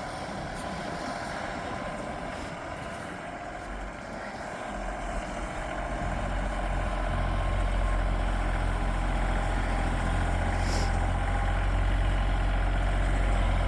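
Tractor engine running steadily, growing louder about five seconds in and then holding at a heavy, low hum.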